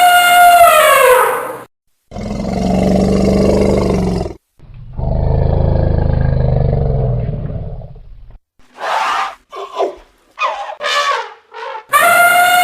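Elephant calls: a loud trumpet blast whose pitch falls away, then two long, low roars of about two and three seconds, a few short calls, and another trumpet blast near the end.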